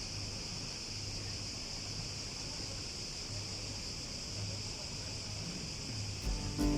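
Steady high-pitched chorus of insects chirring in the evening, with low ambient hum beneath. Acoustic guitar music comes in near the end.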